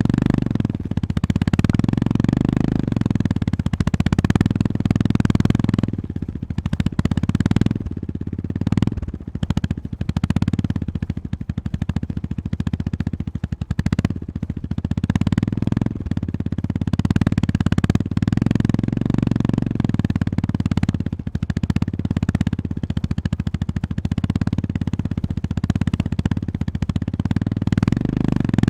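Honda GB350S (H'ness CB350) 348 cc air-cooled single-cylinder engine running on the move, its exhaust pulses rising and falling as the throttle opens and closes, with several brief drops in level as the throttle is rolled off.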